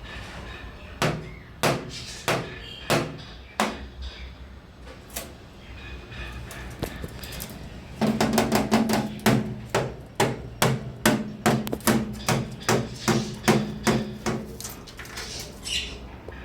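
A series of sharp knocks or taps. A few come spaced about a second apart, then about halfway through a faster run starts, roughly two or three a second for several seconds, before it stops near the end.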